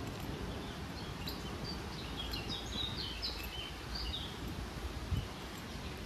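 A small songbird chirping a quick run of short, high notes for a few seconds, over a steady low outdoor rumble.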